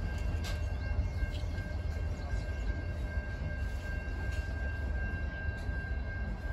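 Freight train's boxcars rolling away on the track: a steady low rumble with a thin, steady high-pitched tone over it and a few faint clicks.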